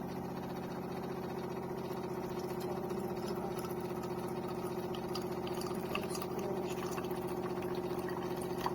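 Coffee machine's motor running with a steady, even hum, with faint crackling ticks over it.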